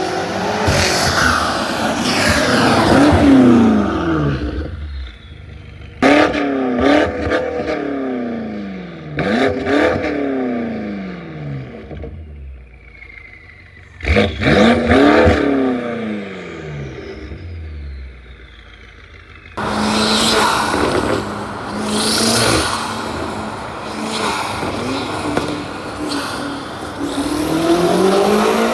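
Straight-piped BMW M5 Competition (F90) with catless downpipes under hard acceleration: its twin-turbo V8's revs climb and fall away in four separate bursts. It then runs loud and steady for several seconds, climbing again near the end.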